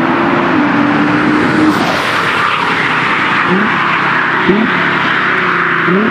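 Nissan R35 GT-R's twin-turbo V6 through an Akrapovic titanium exhaust, running loud under a thick rush of noise. Its pitch sinks slowly for the first two seconds, then rises in three short blips in the second half.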